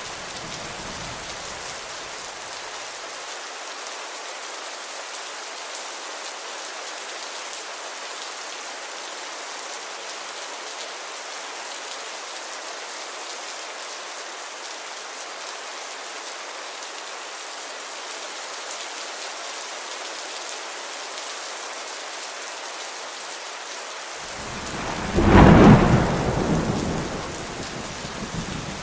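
Steady rain falling in an even hiss. Near the end a roll of thunder swells up, booms loudest for about a second, and rumbles away over the next few seconds.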